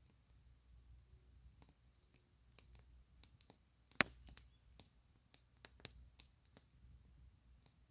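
Campfire crackling: irregular sharp pops and snaps of burning wood, the loudest about halfway through.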